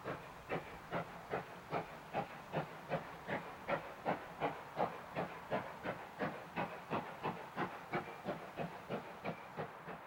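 Two-cylinder steam exhaust of GWR Modified Hall 4-6-0 No. 7903 Foremarke Hall, beating evenly at about two and a half chuffs a second. It grows louder to a peak in the middle, then fades as the locomotive passes and draws away.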